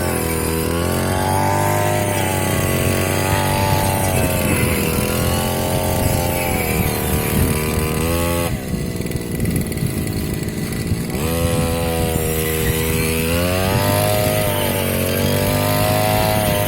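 Small brush-cutter engine on a rice- and grass-cutting machine running at high speed, its pitch wavering up and down. About eight and a half seconds in it drops back to a lower speed for a couple of seconds, then revs up again.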